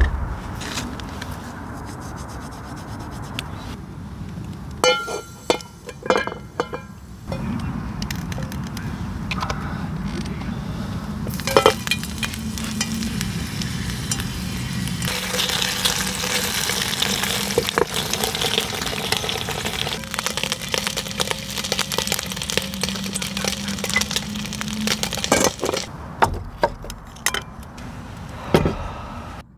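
Sausage and bell pepper skewers sizzling and crackling in hot oil in a frying pan, starting about a third of the way in and stopping shortly before the end. Before it come light clicks of a knife and skewer against a wooden cutting board, and a few knocks near the end.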